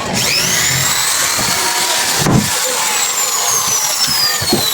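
A small power tool's motor whines up to speed at the start, then its pitch slowly falls, with a single knock a little over two seconds in.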